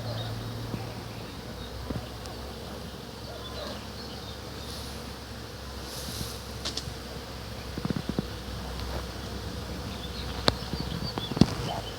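Bees buzzing steadily around flowering hawthorn blossom. A few sharp clicks near the end.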